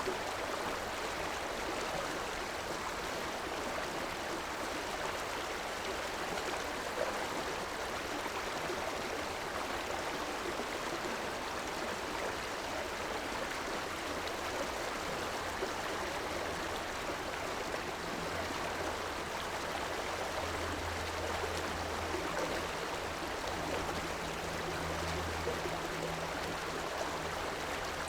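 River water flowing steadily, an even rushing with gurgles. From about two-thirds of the way in, a faint low hum comes and goes underneath.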